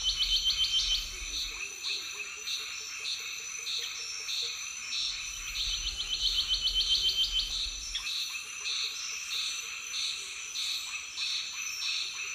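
A chorus of chirping insects and birds: a steady high insect drone with evenly repeating chirps about twice a second, and two bursts of rapid clicking trills, one at the start and one from about five seconds in.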